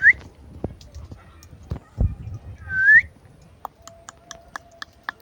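Indian ringneck parrot whistling: two short whistled notes, each curving up in pitch at its end, one right at the start and one about three seconds in, among scattered sharp clicks and a few low knocks.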